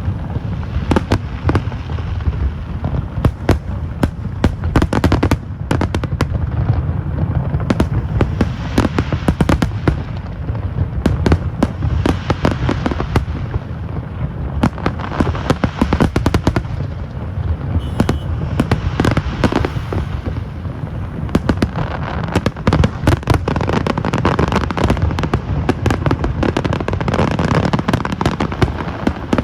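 Fireworks display going off without a break: dense, rapid bangs and crackles over a steady low rumble.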